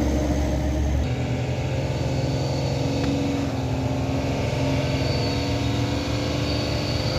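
A heavy vehicle's engine running steadily on the steep climb. Its sound changes abruptly about a second in, and a faint high whine joins it from about five seconds in.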